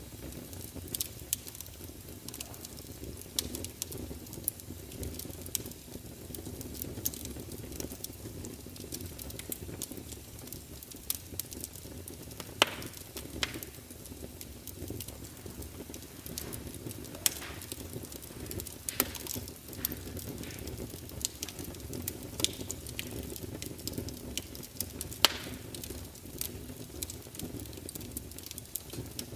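Wood fire burning: a steady low rush of flames with irregular crackling and a few louder sharp pops.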